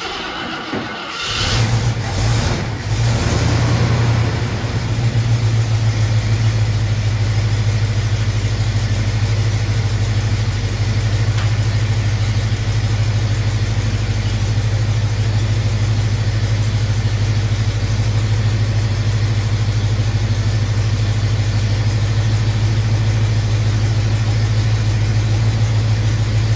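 1974 AMC Javelin's engine, its ignition freshly timed, catching about a second in, running unevenly for a few seconds with brief revs, then settling into a steady idle.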